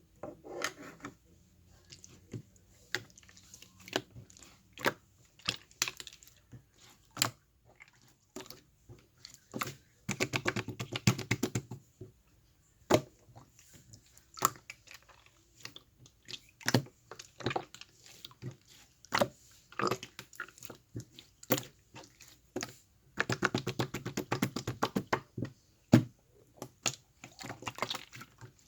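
Slime being handled and squeezed: scattered sharp sticky clicks and pops, with two longer runs of dense crackling squelches, about ten seconds in and again about twenty-three seconds in.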